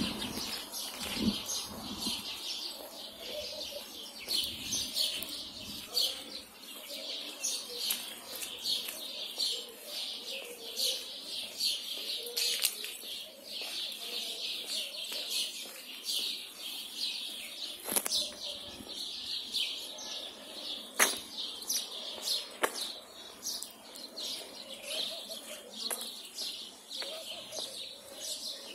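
Many small birds chirping in a dense, continuous chorus of short high calls from the trees. Three sharp clicks cut through in the second half, the loudest about two-thirds of the way in.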